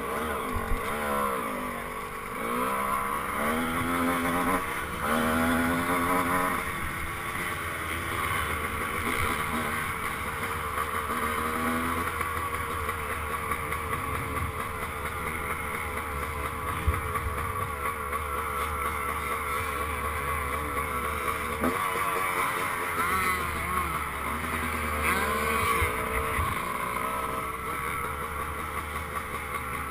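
Dirt bike engines running and revving, the pitch climbing and dropping in repeated runs in the first few seconds, then wavering up and down.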